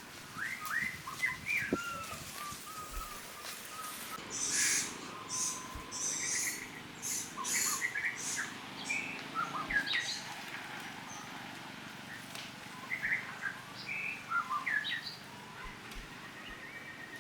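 Many short, high chirping calls rising and falling in pitch, scattered throughout, with a run of scratchy bursts between about four and eight seconds in.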